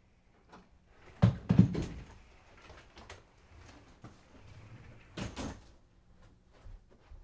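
A few sharp knocks and thuds from an interior door a little after a second in, with another pair of thuds about five seconds in and faint ticks between.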